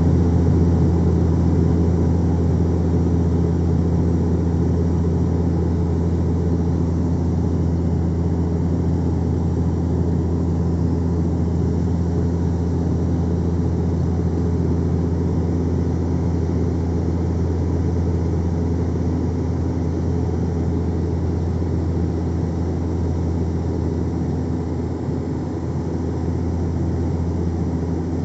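Steady cabin drone of an aeroplane in flight, heard inside the passenger cabin: a low hum with a few steady tones over an even rush of engine and airflow noise.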